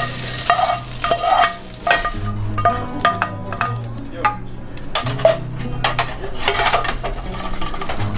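Beef fajita strips frying in a pan, sizzling while a utensil stirs them, with many irregular clacks and scrapes of the utensil against the pan.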